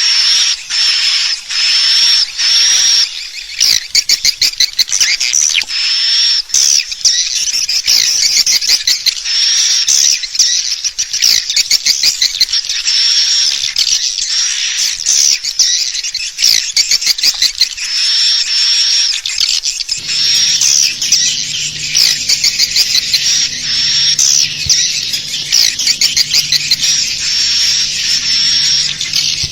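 Swiftlet call recording: dense, rapid, high-pitched twittering chirps repeating without pause, the lure call played to draw swiftlets into a nesting house. A low steady hum joins about two-thirds of the way through.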